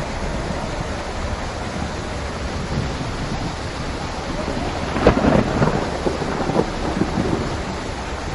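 Steady heavy rain with thunder, which swells into a louder crackling rumble about five seconds in and then dies back.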